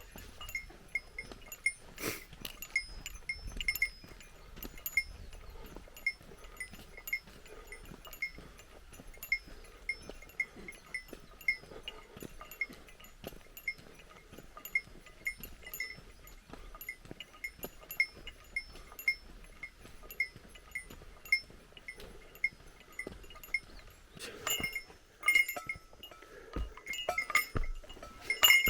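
A small bear bell on a hiker's pack jingling in time with walking steps, about two rings a second, with a busier burst of jingling near the end.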